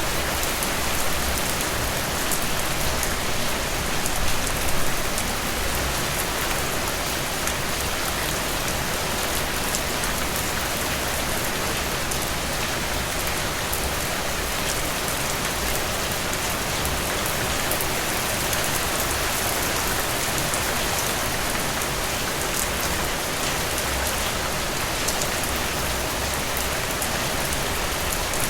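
Steady rain falling, a dense even hiss with scattered individual drop hits, briefly louder twice about four to five seconds in.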